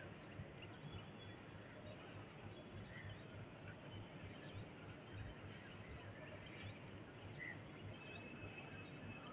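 Electric multiple unit local train approaching slowly, a faint steady low rumble, with scattered bird chirps over it.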